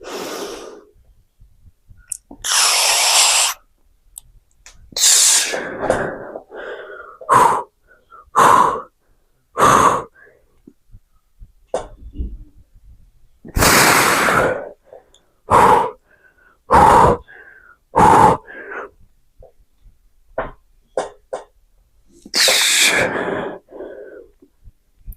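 A man breathing hard from the effort of lifting weights: long, forceful exhales every several seconds, with a string of short, strained grunts between them.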